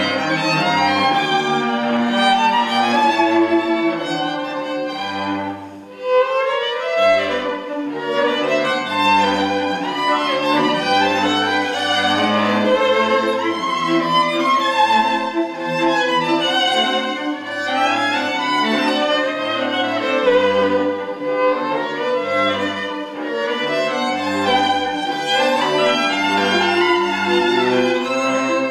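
String quartet playing live, violins and cello in sustained bowed phrases, with a brief pause between phrases about six seconds in.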